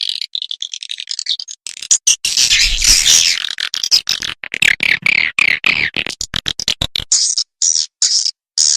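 Recorded swiftlet calls from a lure track: dense, high-pitched twittering chatter of many birds that breaks into short separate chirp bursts near the end. It is the kind of call played through speakers to draw swiftlets into a nesting house.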